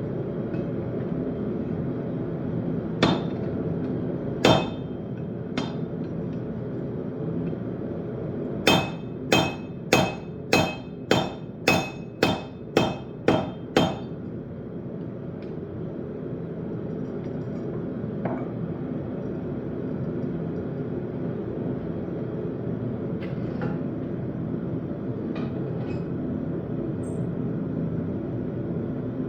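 Blacksmith's hammer striking steel on an anvil while forging a railroad spike knife. A few single blows come first, then a run of about ten ringing strikes at roughly two a second, over a steady low hum.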